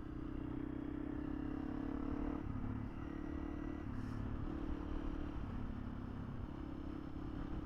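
Honda CRF300L's single-cylinder engine running at a steady riding pace, its note dipping briefly a few times.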